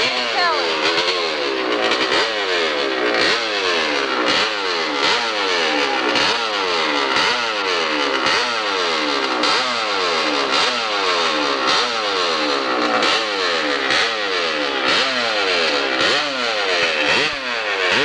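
Hillclimb motorcycle engine revving in repeated surges, about once a second: each time the pitch jumps up sharply, then sags before the next burst of throttle.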